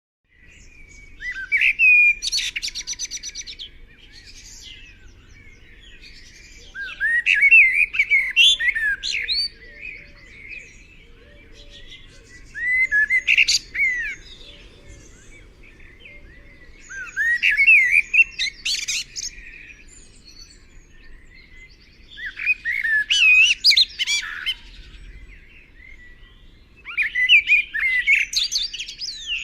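A songbird singing the same complex warbled phrase over and over, each phrase about two seconds long with about five seconds between phrases.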